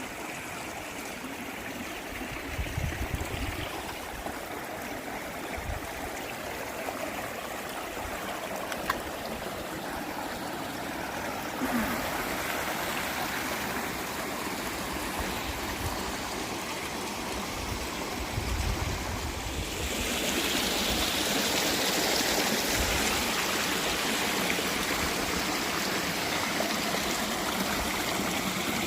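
Steady rushing noise, like running water, with low thuds now and then. It steps up suddenly in level twice, about twelve seconds in and again about twenty seconds in.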